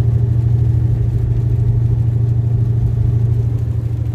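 Semi truck's diesel engine droning steadily while cruising on the highway, heard from inside the cab as a strong, even low hum.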